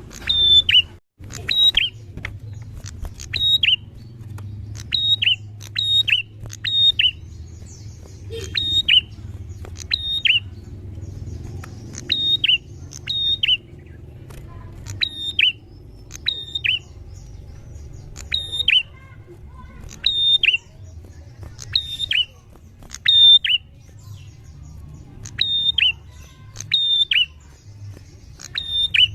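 Prenjak (prinia) calling loudly and repeatedly: short, sharp chirps that drop in pitch, in quick clusters of two or three, repeated every second or two.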